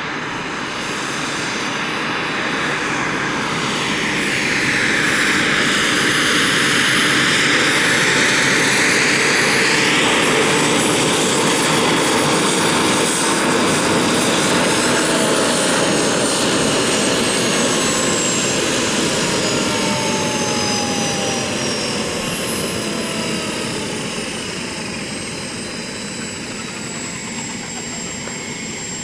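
Radio-controlled model helicopter in flight: a steady whirring of engine and rotor with a high whine. It grows loudest about a third of the way in, then the whine slowly falls in pitch through the second half.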